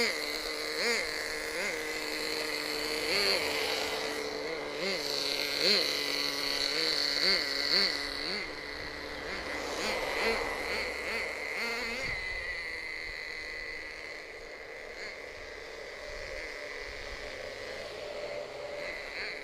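Small two-stroke nitro glow engine of a CEN MG16 1/16-scale RC monster truck running with a high buzz, blipped up in short repeated revs through the first half, then holding a steadier, quieter drone.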